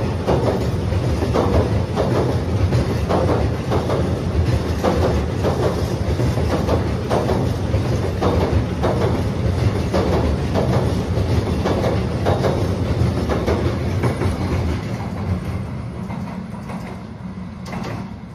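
Wooden-bodied heritage passenger carriages rolling over a steel girder bridge: a heavy low rumble with repeated wheel clicks over the rails, about one or two a second. It fades over the last few seconds as the train moves away.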